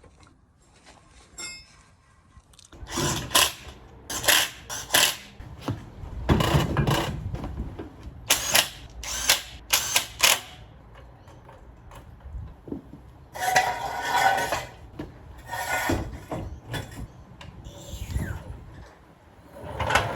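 Tools working on metal at the truck's steering linkage: irregular runs of sharp metallic clicks and rattles, starting about three seconds in, as a tie rod is adjusted to set a rough wheel alignment.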